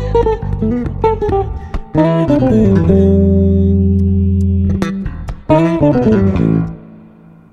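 Two electric basses, a six-string and a four-string, playing the closing phrases of an instrumental tune: quick runs sliding downward, a long held low note, then a last descending run that rings out and stops about seven seconds in.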